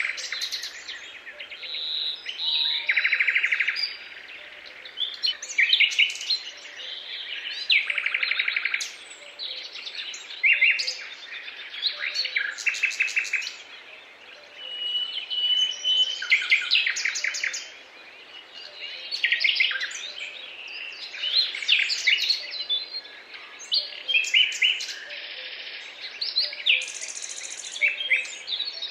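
A dawn-chorus-like mix of several songbirds singing and calling at once: varied chirps, fast trills of rapidly repeated notes and short whistles, overlapping continuously.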